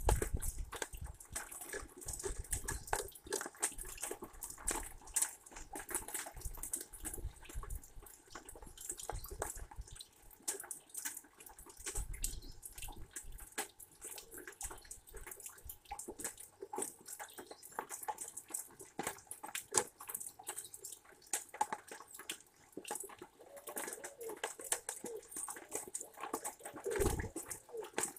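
Rain falling, with many irregular drops hitting close by.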